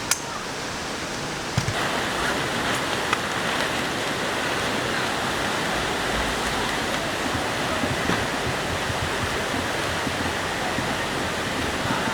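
Valley stream rushing steadily, a little louder from about two seconds in, with a few light clicks in the first few seconds.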